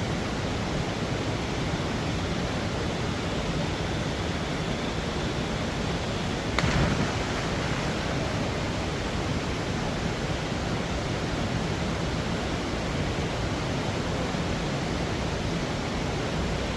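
Steady rush of flowing river water, even and unbroken, with a single short knock about six and a half seconds in.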